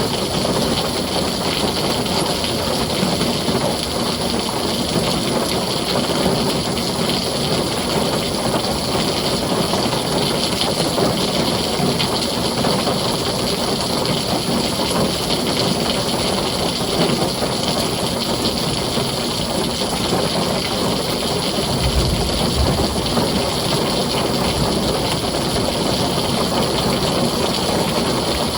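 Heavy rain falling steadily on a tin roof, an even, unbroken hiss. A brief low rumble of thunder comes about three-quarters of the way through.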